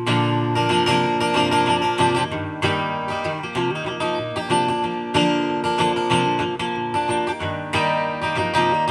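Acoustic guitar strumming chords steadily through an instrumental break in a live country song, with no singing.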